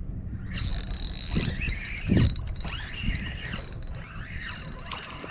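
Fishing reel being cranked to bring in a hooked fish: a whine that rises and falls in pitch with the speed of the cranking, starting about half a second in. A few dull thuds against the kayak, the loudest about two seconds in.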